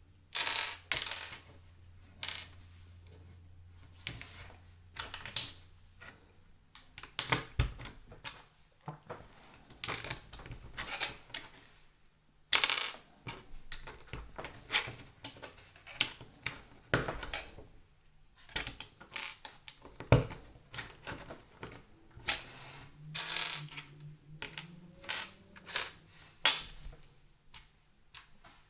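Small plastic LEGO pieces being handled and snapped together by hand: a steady run of irregular sharp clicks and clatters.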